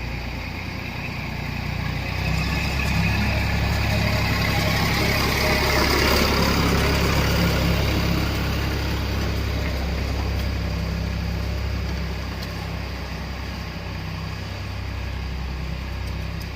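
Tractor engine running steadily as it pulls a land leveler across the field on a levelling pass. It gets louder over the first few seconds, is loudest about six seconds in, then fades back down.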